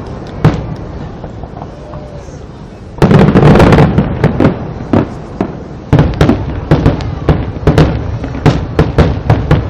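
Fireworks display: a single bang about half a second in, then a heavy burst about three seconds in with a rumbling tail and scattered sharp pops. It swells again near six seconds into a rapid barrage of cracks and booms.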